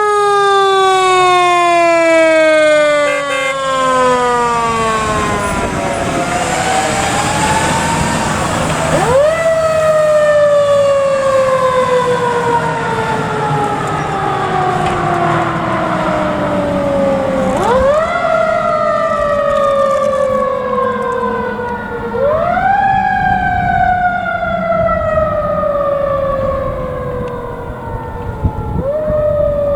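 Fire truck's mechanical siren, wound up four times in a fast rise, each time coasting slowly down in pitch. The truck's engine rumbles underneath.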